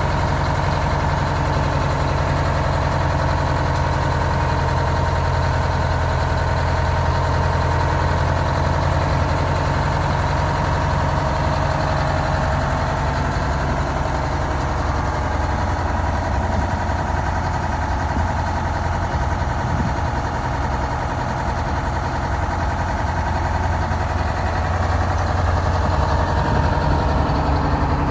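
Fire engine's engine idling steadily, a low even running sound without revving.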